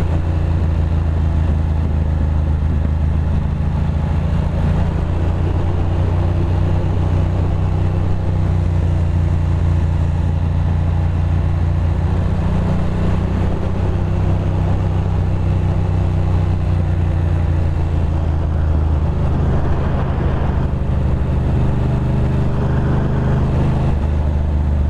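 Ducati Monster 620's air-cooled L-twin engine running at steady revs while the motorcycle cruises, an even low hum with no throttle changes.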